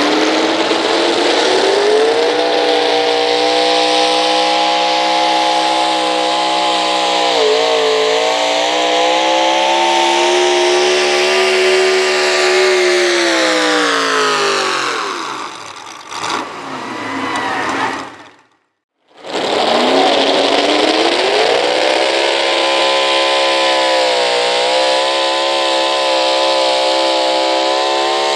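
Pro stock gas 4x4 pulling truck's engine at full throttle under load, loud. Its pitch climbs, holds high with a brief dip, then falls away as the run ends. After a short break a truck engine climbs back to full throttle and holds there.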